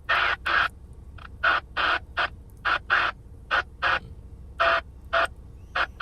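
Crows cawing: harsh calls in short runs of two to four, with pauses between the runs. A faint low steady rumble runs underneath.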